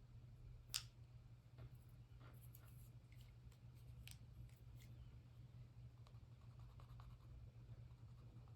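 Faint scratching strokes of coloring in on paper by hand, with one sharp click about a second in, over a steady low room hum.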